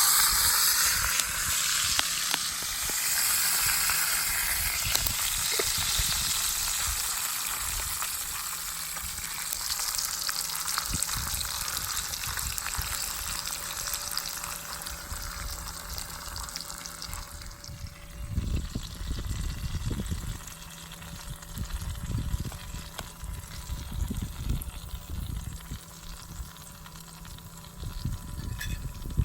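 Beef steak frying, a loud sizzle that fades over the first fifteen seconds or so. Irregular low rumbling in the second half.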